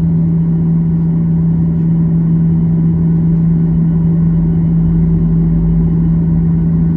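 Steady cabin drone inside a Boeing 737-800 on the ground, its engines running at idle: an even rumble with a constant low hum.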